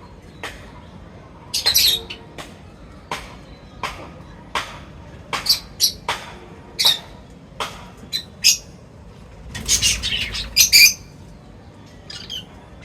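Birds at a feeder giving short, sharp chirps and squawks, one or two a second, with louder bursts of calling about two seconds in and again near the end.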